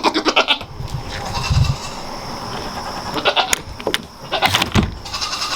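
Nigerian dwarf goats bleating in short, wavering calls, near the start and again about three seconds in, with a few low thumps between them.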